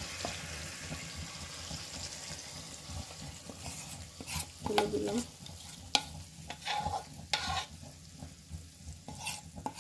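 Chicken pieces sizzling in a hot pot while a thick yogurt marinade is scraped out of a bowl onto them with a spoon. The sizzle dies down after the first few seconds, leaving scattered scrapes and taps of the spoon.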